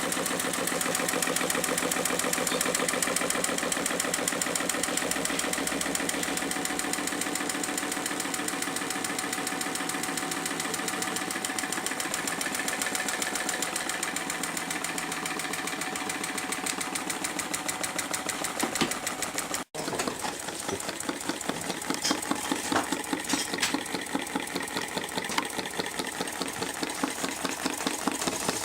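Homemade mechanical Stirling engine running, its mechanism clattering in a fast, steady rhythm. After a brief dropout about two-thirds in, the beats are slower and more separate.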